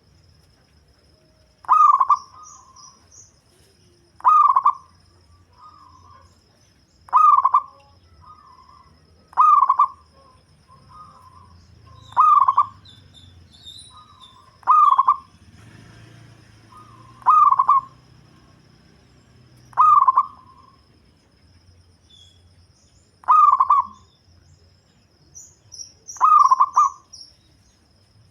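Local zebra dove (perkutut) cooing: a short loud phrase repeated about every two and a half seconds, ten times, each followed by a few softer notes. Faint high chirps of small birds sound in the background.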